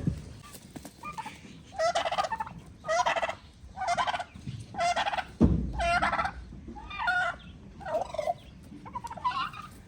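Turkeys gobbling, a run of about seven warbling gobbles roughly one a second, with a single thump about halfway through.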